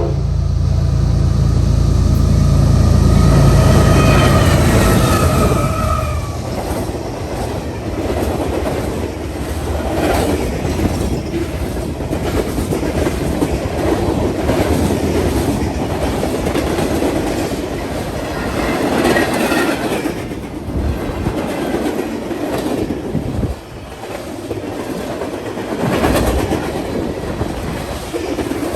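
Freight train passing close by: the locomotives go by first with a loud low diesel rumble over the first six seconds or so. Then the cars' wheels clatter steadily over the rail joints, with a brief squeal about two-thirds of the way through.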